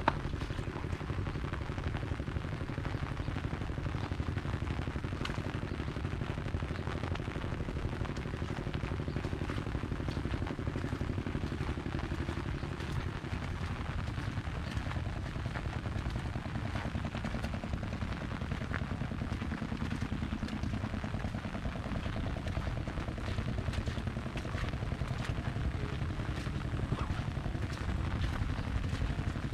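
Rain pattering on an umbrella overhead: many close, irregular drop ticks over a steady low rumble.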